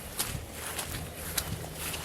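Footsteps outdoors, a step about every half second.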